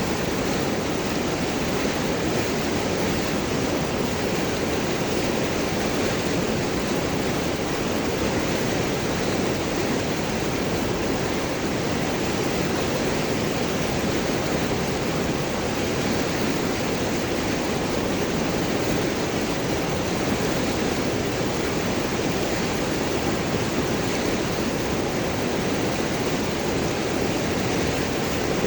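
River water rushing and gurgling over and around large rocks, a steady, unbroken flow.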